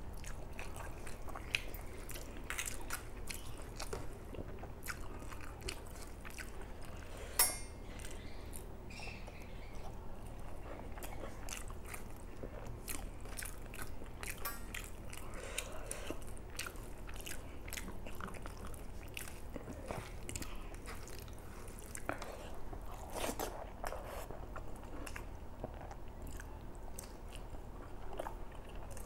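Close-up mukbang eating sounds: a person chewing big mouthfuls of rice and curry, with wet mouth clicks and smacks throughout. A brief sharp rattle about seven seconds in is the loudest moment, with a smaller one about halfway through.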